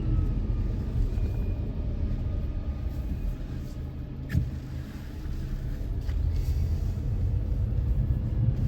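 Car cabin rumble while driving: engine and road noise, easing off around the middle and building again, with a single sharp click about four and a half seconds in.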